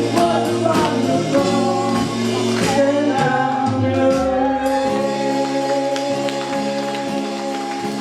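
Gospel song sung by male voices with instrumental accompaniment and light rhythmic strokes; about halfway through a long chord is held and the music slowly fades.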